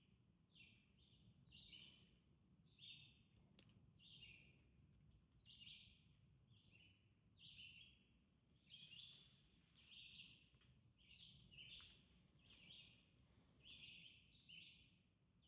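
Faint songbird calls: short high chirps repeating about once a second, with stepped pitch, several birds calling back and forth and sometimes overlapping.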